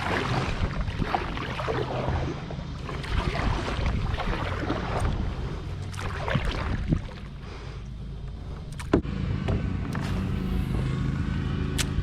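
Kayak paddle strokes swishing and splashing through the water, with a steady low rumble on the microphone. A sharp knock comes about nine seconds in, likely the paddle or gear striking the hull.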